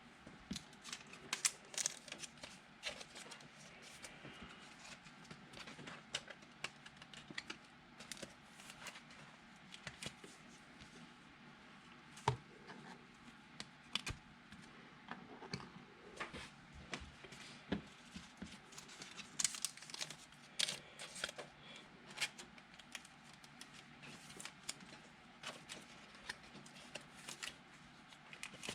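Trading cards and card packs being handled on a table: irregular light clicks, taps and short rustles of card stock and wrappers.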